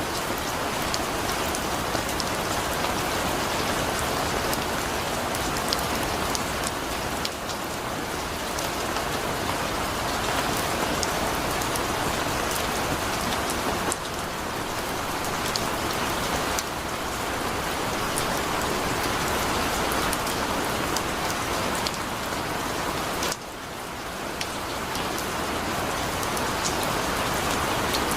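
Heavy rain falling steadily: a dense, even hiss with scattered sharp drop ticks, dipping briefly in level a few times.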